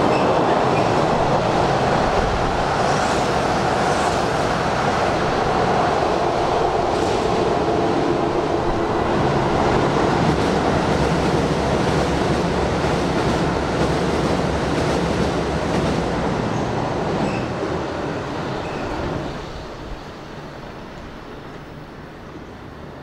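Hanshin Railway electric train running through the station at speed without stopping, its wheels and motors making a loud, steady rumble along the platform. The noise eases off and drops away about 19 seconds in as the train clears the station.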